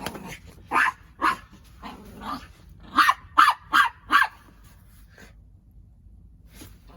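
Dog barking: a string of about eight short barks, coming faster and loudest around three to four seconds in, then stopping.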